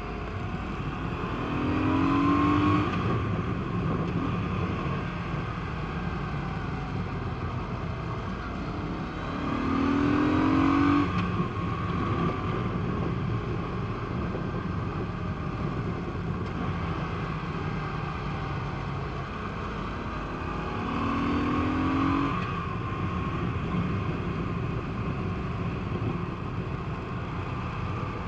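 Honda PC800 motorcycle's V-twin engine running under way with steady wind and road noise, its pitch rising three times as the bike accelerates hard.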